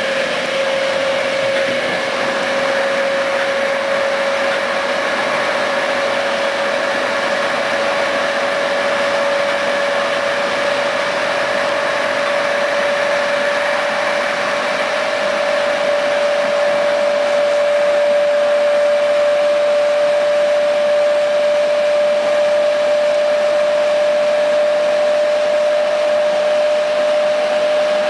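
Train running at speed, heard from inside a carriage: a steady loud rushing noise with a whine that rises slowly in pitch as the train gathers speed.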